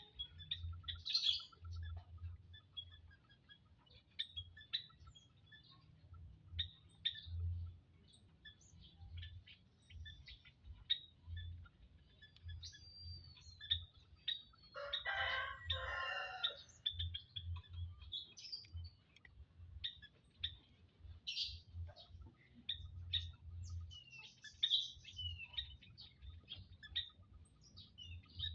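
Quail calling: many short high chirps throughout, and a louder harsh two-part call about halfway through. A low irregular rumble runs underneath.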